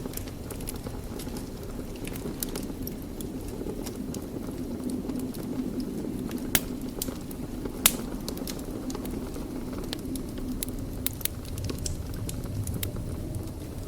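Wood fire burning in a fireplace: a steady low rumble of flames with frequent small crackles, and two sharper pops about a second apart around the middle.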